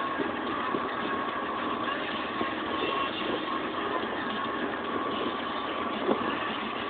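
Vehicle engine running steadily at a constant pitch, with a few faint knocks.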